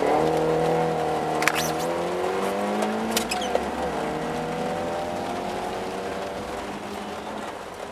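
Car engine running at steady raised revs. Its pitch dips briefly about three and a half seconds in, then rises slowly as the sound fades. Two sharp clicks come about a second and a half in and again near three seconds.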